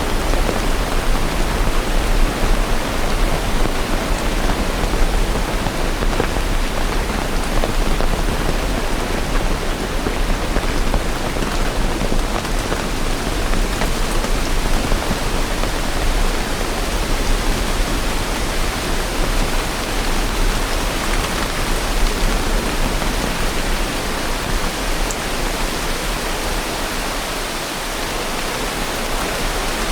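Steady heavy rain, a dense even hiss of falling drops that holds at the same level throughout.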